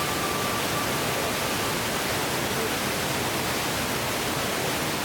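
Steady, even rushing noise with no rhythm or distinct events. A single held tone left over from the preceding music fades away in the first second or so.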